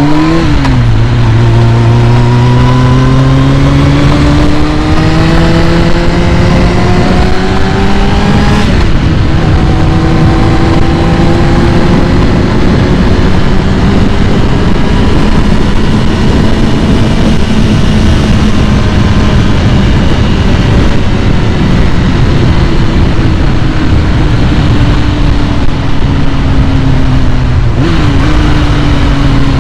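2001 Kawasaki ZX-6R's carbureted inline-four engine running at a raised speed during warm-up. The revs climb slowly, jump higher about nine seconds in, then ease down and drop back near the end.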